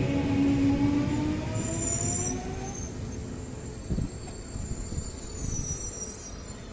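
Frecciarossa ETR700 electric high-speed train slowing alongside the platform: its motor whine falls in pitch, with brief high squeals around two seconds in and again near the end, and a single clunk about four seconds in, as the running noise dies down.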